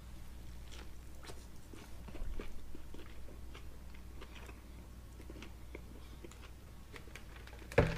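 A person chewing a mouthful of burger, with soft, wet mouth clicks throughout. One short, louder thump comes just before the end.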